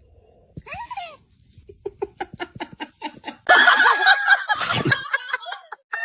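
A person laughing: quick rhythmic bursts of laughter that break into loud, hearty laughing about halfway through. A short gliding cry comes shortly before them.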